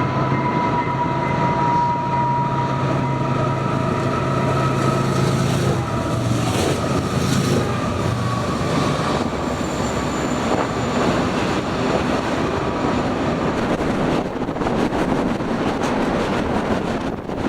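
A train running past at close range: a steady low drone and a high ringing tone that fades over the first few seconds, giving way to an even rumble of rolling rail noise.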